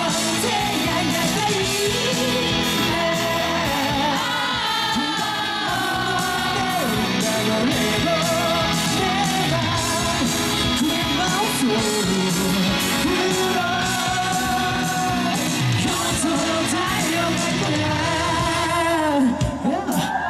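Live pop-rock band playing with a male lead vocal singing over it, the band driving an even beat.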